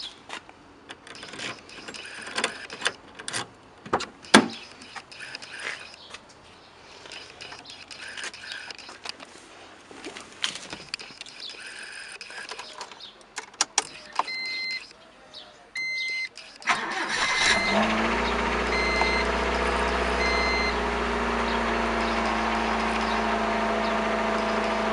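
Clicks and knocks of a car door and keys, then a warning chime beeping about once a second from about 14 s in. The Honda Civic EF wagon's four-cylinder engine starts about 17 s in, catching after a brief crank, and settles into a steady idle.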